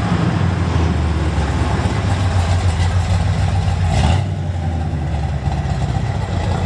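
Plymouth GTX's V8 engine running with a deep, steady low rumble as the car cruises past at low speed. The sound shifts abruptly about four seconds in.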